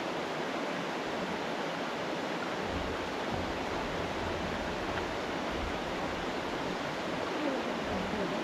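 Steady rush of running water from the falls and stream, with a low rumble for a few seconds in the middle.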